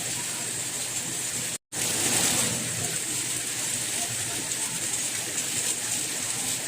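Steady soft rain, an even hiss of falling rain. It cuts out completely for a split second about a second and a half in, then returns slightly louder for a moment.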